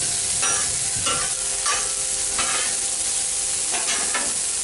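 Vegetables sizzling on a Blackstone flat-top griddle with a steady hiss, while a metal spatula scrapes and turns them in several short strokes.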